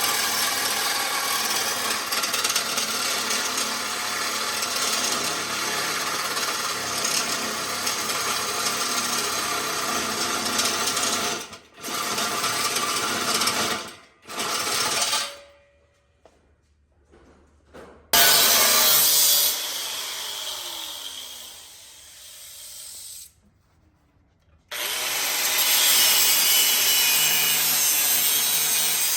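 A handheld power tool running under load, likely cutting or grinding header pipe, in several stretches broken by abrupt cuts. One stretch trails off gradually before the noise starts again.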